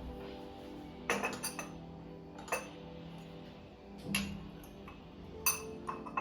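Kitchenware clinking as dishes and glass or steel containers are handled and set down on a countertop: a quick run of clinks about a second in, then scattered single knocks. Soft background music plays steadily underneath.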